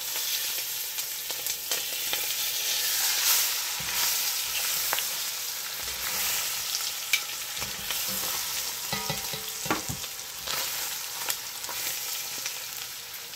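Pork roast sizzling as it sears in hot fat in a Dutch oven, with scattered clicks and scrapes of tongs and a metal spatula against the pot as the roast is turned. The sizzle eases a little near the end.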